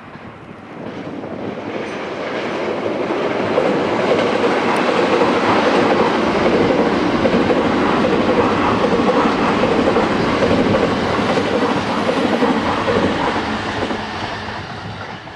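E353 series electric limited express train passing at speed. The noise of its wheels on the rails builds over the first few seconds, holds steady while the cars go by, then fades as it draws away.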